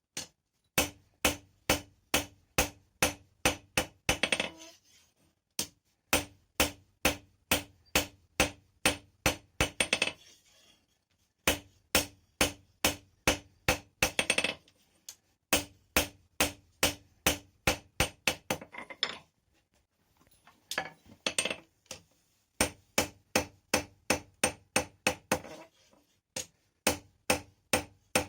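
Blacksmith's hand hammer forging steel rebar on an anvil. The blows come about three a second in runs of several seconds with short pauses between, and each blow rings with the same steady anvil tone.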